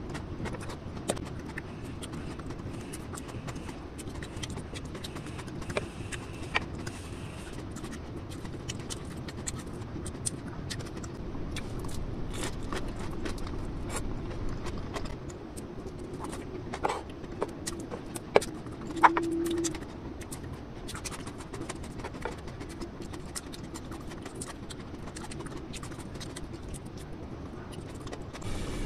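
Close-miked eating sounds: chewing and lip-smacking on soft steamed sweet potato and corn, with many small scattered mouth clicks and a few sharper clicks. A brief low hum shortly after two-thirds of the way through.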